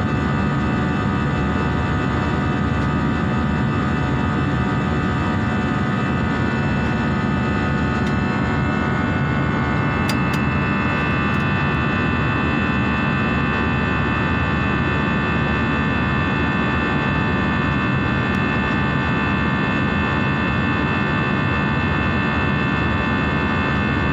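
Jet airliner engines running steadily, heard from inside the passenger cabin as a loud, even rush with whining tones. A higher whine comes in about ten seconds in.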